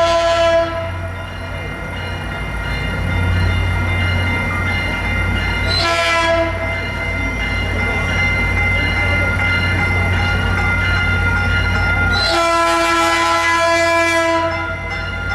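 Diesel locomotive horn sounding three times: a blast that cuts off about half a second in, a short one about six seconds in, and a longer one from about twelve seconds to nearly fifteen. A steady low diesel engine rumble runs underneath.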